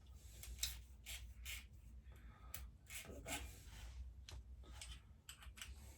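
Faint, irregular clicks, taps and rubbing of hand tools and small metal parts being handled on a lawnmower carburettor.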